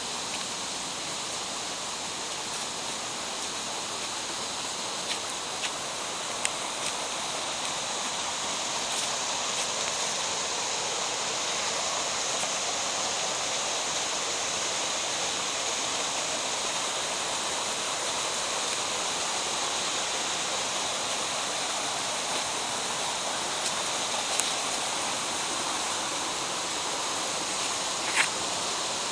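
Rushing water of a mountain stream, a steady hiss that grows slightly louder about a third of the way in, with a few faint clicks over it.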